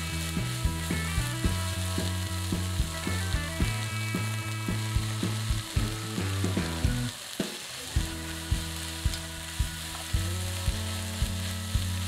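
Butterbur stems and clams sizzling as they are stir-fried in a wok and turned with a wooden spatula. Background music with a steady beat plays over the sizzling.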